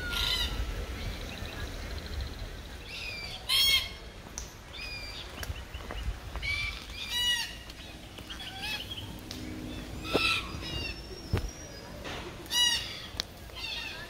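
A bird calls loudly and harshly again and again, about every three seconds, with fainter calls in between. A sharp tick or two comes from small nuts dropping onto brick paving.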